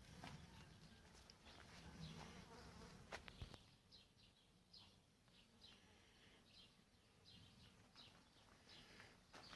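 Faint buzzing of a flying insect such as a bee or fly, strongest in the first two seconds. From about four seconds in, short high chirps repeat about twice a second.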